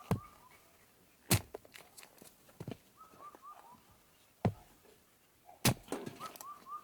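Four sharp, separate knocks, like hard objects struck together, and a bird calling the same short phrase of quick, slightly falling notes three times between them.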